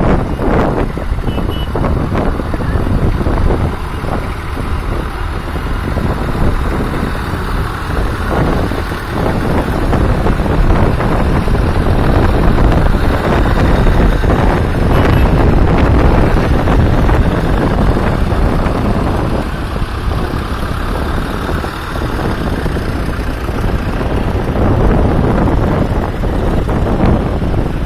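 Tractor engines running steadily as a line of tractors drives past.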